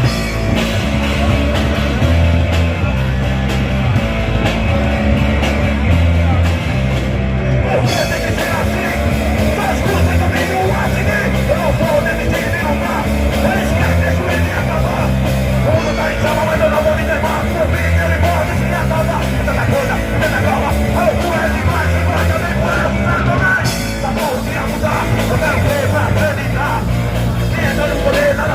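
A rock band playing live and loudly, with bass, drums and guitar; shouted singing and a busier mid-range part come in about eight seconds in.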